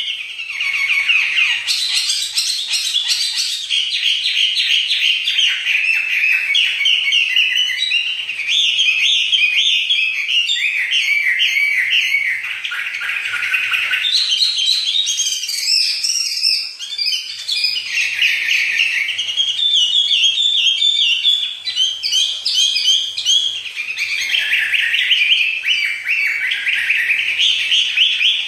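A songbird singing loudly and without pause in fast, chattering strings of high chirps and trills, phrase after phrase, with only brief breaks.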